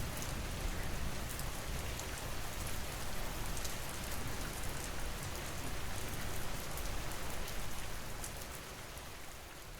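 Steady rain falling, with many small drops pattering, fading out near the end.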